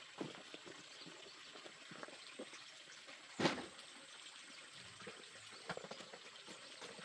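Faint water sounds with scattered small knocks or splashes, one louder about three and a half seconds in, over a thin steady high tone.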